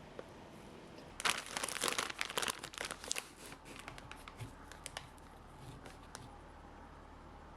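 Packaging crinkling as it is handled: a dense run of crackles starting about a second in, loudest for about two seconds, then thinning to scattered crackles that stop near the end.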